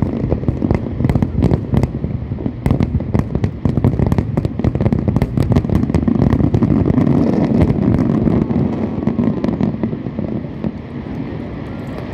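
Aerial fireworks bursting in rapid succession: many sharp bangs and crackles over a heavy booming rumble, thinning slightly near the end.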